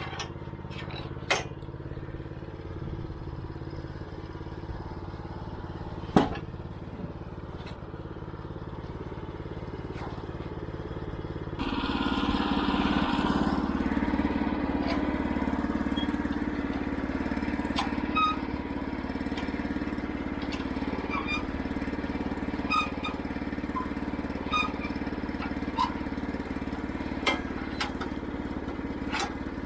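Woodland Mills HM122 band sawmill's 9.5 hp gas engine running steadily at low speed, with two sharp knocks in the first several seconds. About twelve seconds in, the engine is throttled up and runs louder at working speed, with scattered small clicks.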